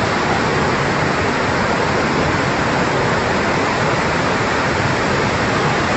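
Fast-flowing floodwater rushing past in a loud, steady torrent.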